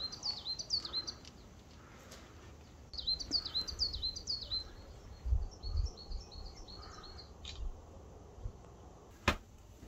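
A songbird singing: quick runs of high, downward-swooping chirps in two bouts, then softer chirps, over light outdoor background noise. A few low thumps come about halfway through, and a sharp click near the end.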